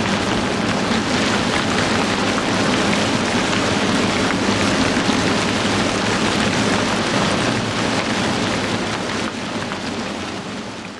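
Heavy rain pouring down steadily, a dense even hiss of drops that fades away over the last couple of seconds.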